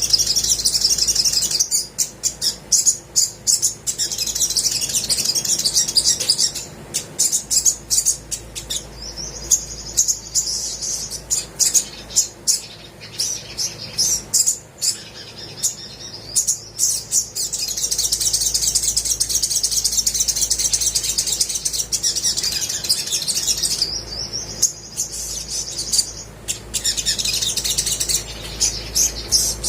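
Olive-backed sunbird singing: long, rapid high-pitched trills alternating with runs of sharp, quick chips.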